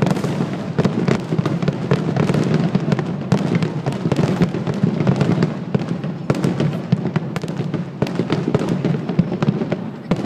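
Aerial fireworks bursting in a dense, continuous barrage: many sharp cracks overlapping one another over a steady low rumble.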